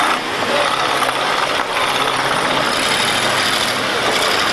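Engines of demolition derby cars running, a loud steady mechanical noise.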